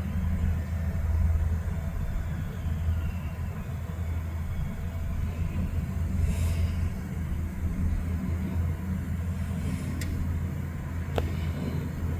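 Freight train rolling past with a steady low rumble, with two brief sharp sounds near the end.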